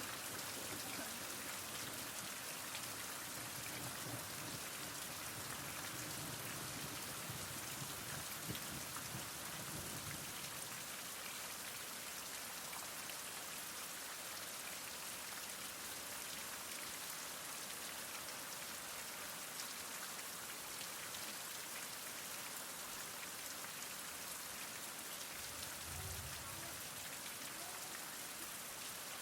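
Heavy rain falling steadily, an even continuous hiss of many drops. A faint low rumble swells briefly twice, a few seconds in and near the end.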